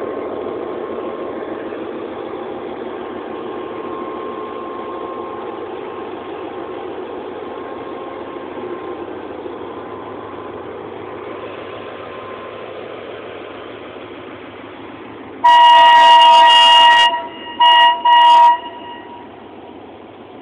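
Passenger coaches of an express train running past close by: a steady rolling noise that slowly fades. About three-quarters of the way through, a loud horn gives one long blast and then two short ones.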